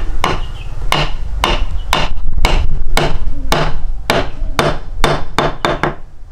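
Repeated sharp knocks like hammer blows, about two a second and coming quicker near the end, over a steady low rumble.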